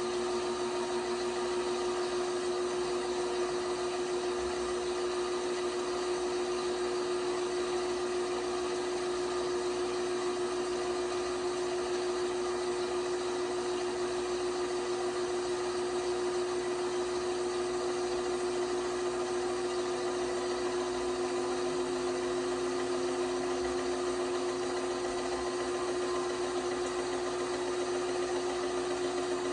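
LG washing machine running steadily, its motor giving a constant whine over a mechanical hum; a second, lower tone comes in about two-thirds of the way through.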